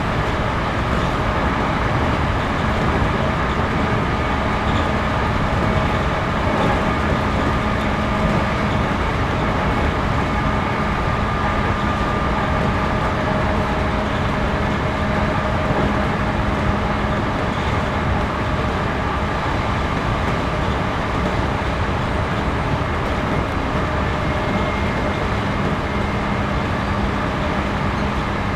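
Interior running noise of a JR Series 211-5000 electric train under way: a steady rumble of wheels on rail and traction gear, with a few faint held tones over it and no let-up in level.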